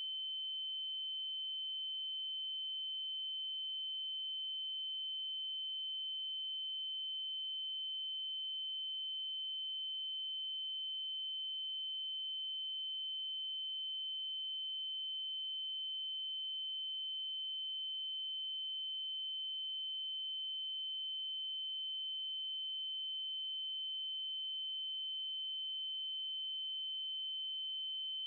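Electronically generated 3072 Hz triangle-wave tone, held steady at one high pitch without a break.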